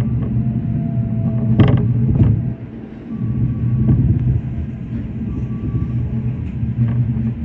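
Shinano Railway SR1-series electric train running on the rails: a steady low rumble with creaks from the car, and a couple of sharp knocks about two seconds in.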